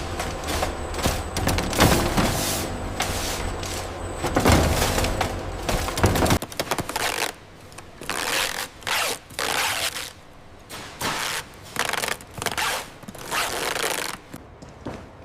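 Heavy machinery running, with a low engine drone under rapid clattering knocks. It cuts off abruptly about six seconds in and gives way to a series of separate short noisy strokes, roughly one a second.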